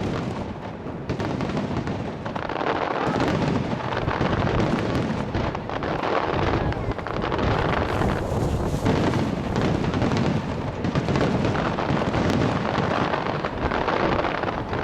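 Starmine fireworks barrage: many aerial shells launching and bursting in rapid, overlapping succession, so the bangs run together into an almost unbroken din.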